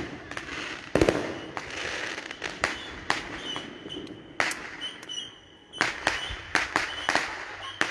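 Aerial fireworks going off in quick succession: a string of sharp bangs, the loudest about a second in, with crackling between them and a short lull shortly before the end.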